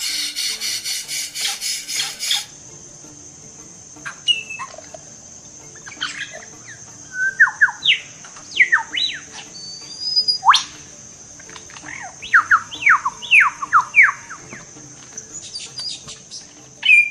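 A bird calling in short, sharp notes that drop steeply in pitch, some in quick runs of several, over a steady high-pitched whine and soft background music. The first two seconds hold a loud, buzzy, evenly pulsed sound.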